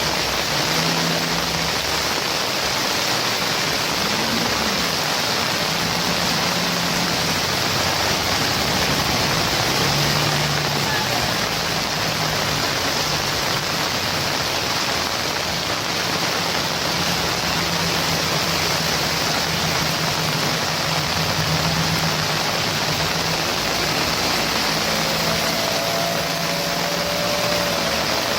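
Steady loud rushing noise with a faint low hum that comes and goes, and a faint wavering tone near the end.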